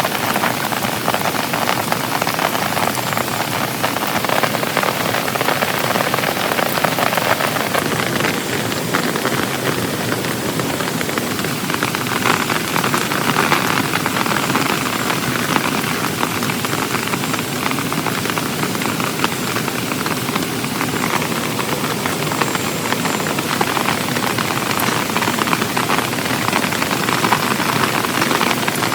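Heavy rain falling steadily, a dense, even patter of drops with no break.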